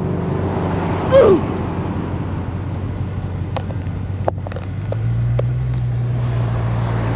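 Car engine running while driving, heard from inside the car, with a steady low hum that grows stronger and settles about five seconds in. A single short squeak falling in pitch comes about a second in, and a few light clicks come in the middle.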